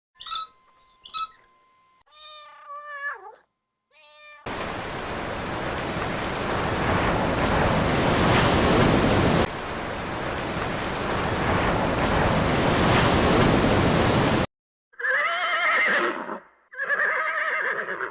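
Domestic cat meows: short pitched calls in the first few seconds and two drawn-out meows near the end. Between them is about ten seconds of steady rushing noise.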